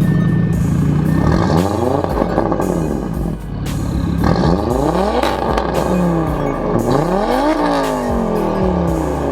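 Tuned Audi A5 2.0 TFSI turbocharged four-cylinder engine heard through its aftermarket exhaust. It holds steady for about a second and a half, then is revved several times, its pitch climbing and falling with each rev.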